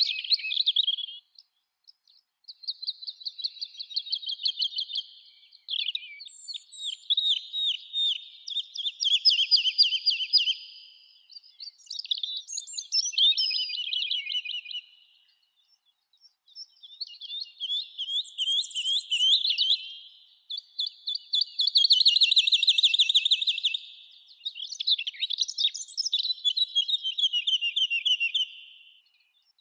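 Songbirds singing: a string of rapid trilled phrases, each two to four seconds long, with short pauses between them.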